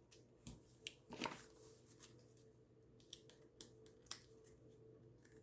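Faint, scattered clicks and rustles of card stock and foam adhesive dimensionals being handled and pressed on at a craft table, over a faint steady hum.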